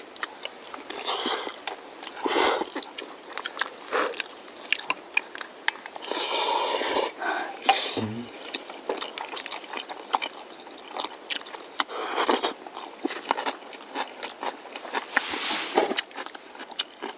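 Close-up eating sounds of jjajang noodles: chewing and slurping, with several noisy slurps and many small clicks.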